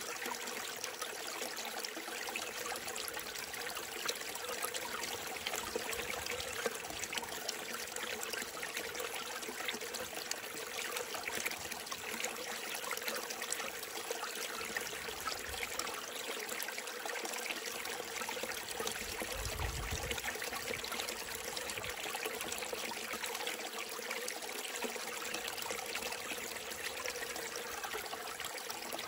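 Small mountain stream trickling and babbling steadily, fed by mist and rain.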